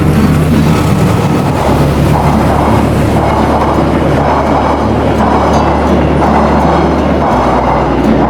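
Diesel train running past: a steady low engine drone that shifts pitch twice, over a rolling rumble from the wheels that swells about once a second.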